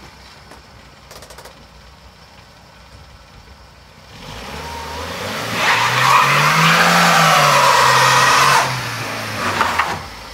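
Vauxhall Corsa engine idling faintly, then revved hard from about four seconds in: the revs climb, peak and fall back. A loud hissing noise rides over the peak for about three seconds and cuts off suddenly.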